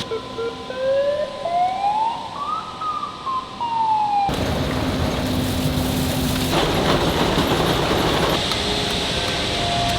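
Factory machinery: a whine that rises in pitch over about two and a half seconds and then falls away. About four seconds in it gives way abruptly to steady, loud machine noise with a low hum, which grows rougher a couple of seconds later.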